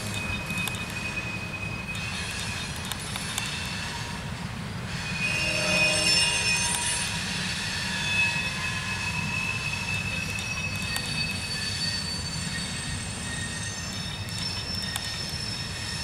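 Loaded coal hopper cars of a freight train rolling past: a steady low rumble of steel wheels on rail, with high-pitched wheel squeal that comes and goes, loudest about six seconds in.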